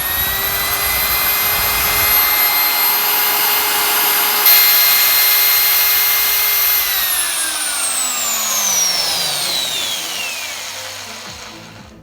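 Pro-Almaz Pro 202 EL diamond core drilling motor running at steady speed with a high whine. About seven seconds in, the whine falls steadily in pitch as the motor spins down, fading out near the end. It is in full working order.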